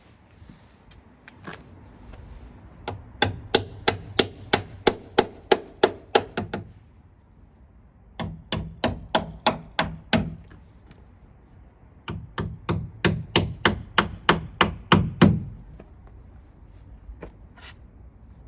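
Repeated hammer blows in three runs of steady strikes, about three or four a second, with short pauses between the runs.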